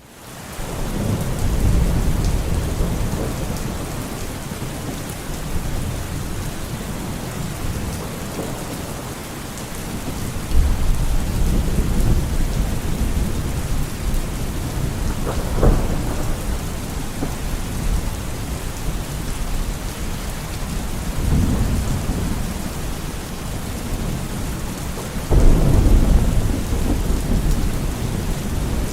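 Steady heavy rain with thunder rolling in low rumbles several times, and a sharper crack of thunder about halfway through. The storm sound fades in from silence at the very start.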